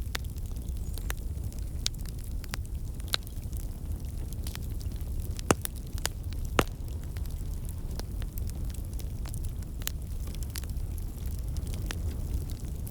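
Wood fire crackling: irregular sharp pops and snaps over a low steady rumble, with two louder pops near the middle.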